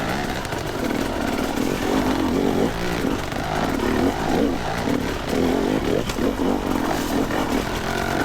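Two-stroke dirt bike engine revving up and down over and over as the throttle is worked.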